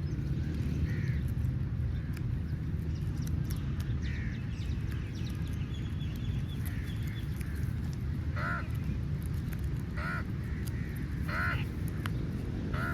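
Crows cawing, short harsh calls repeated every second or two, over a steady low rumble.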